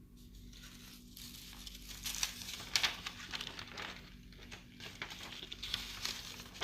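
Faint, irregular rustling and crinkling handling noise with a few small clicks, over a low steady electrical hum.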